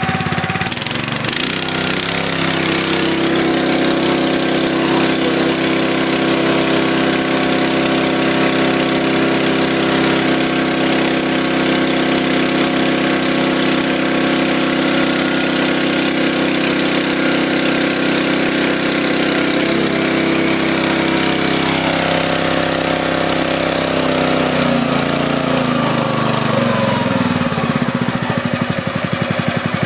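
Honda 5.5 hp horizontal-shaft single-cylinder four-stroke engine running steadily just after a cold start. Its speed falls gradually over the last several seconds.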